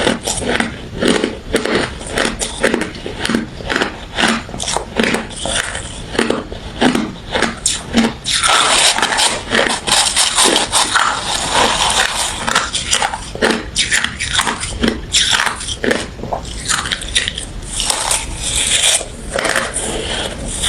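Close-up crunching of refrozen crushed ice and frosty freezer ice being bitten and chewed: a rapid run of sharp crunches, denser and more continuous for a few seconds in the middle.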